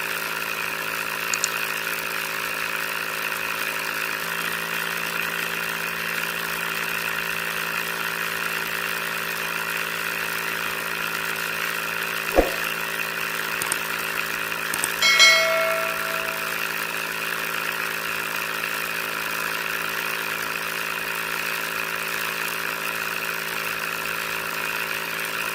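Small motor of a homemade model tractor running steadily with a constant hum. About halfway there is a single knock, and a couple of seconds later a short metallic ring.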